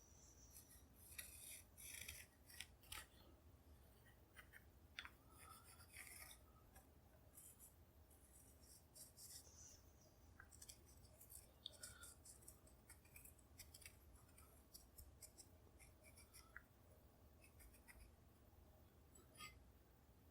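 Faint, irregular scratching strokes of a marking tool tracing around a metal butt plate held against the end of a walnut rifle stock.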